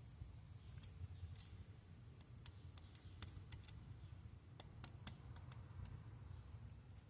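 Scattered, irregular sharp clicks and ticks from hand tools at work on a car's starter mounting, with a few louder clicks about five seconds in, over a low steady hum.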